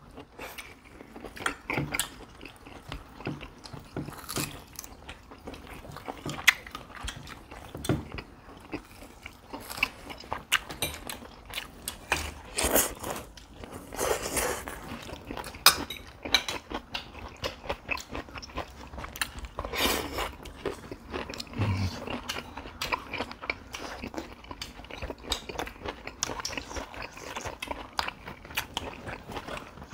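Close-up eating sounds: people chewing and biting food, with many small irregular clicks scattered throughout.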